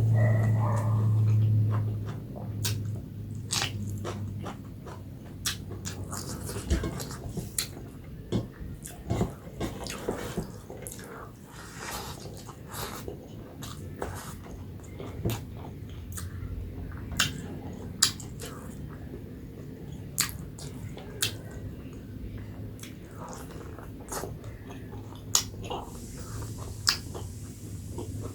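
Close-up eating sounds: chewing, with frequent short wet clicks and smacks of the mouth and lips.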